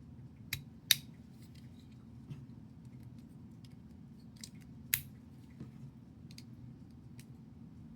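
Small plastic building bricks clicking and snapping as pieces are pressed together, a few sharp clicks with the loudest about a second in and about five seconds in, over a faint low hum.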